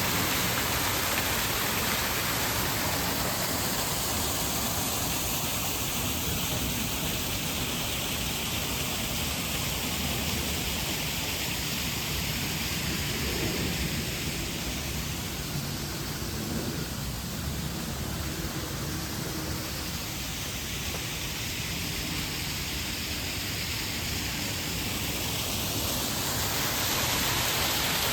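Steady rush of water from a small waterfall, dipping a little in the middle and swelling again near the end.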